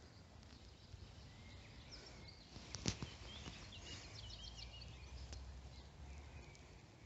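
Faint outdoor background with a small bird chirping a quick run of short, high notes around the middle, and a single sharp click just before it.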